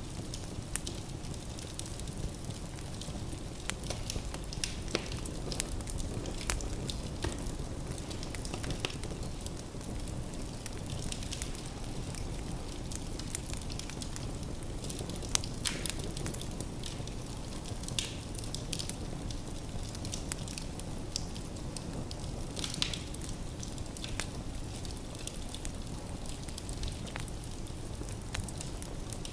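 Firewood burning in a fireplace: a steady low rumble of flames with irregular crackles and snaps from the wood, a few louder pops among them.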